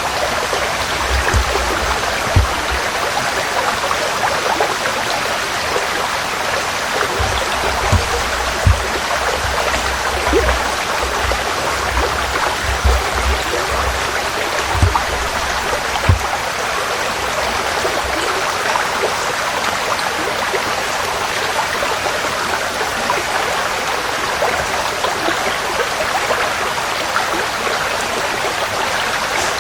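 Forest stream flowing, a steady rushing and babbling of water. Brief low thumps come and go during the first half.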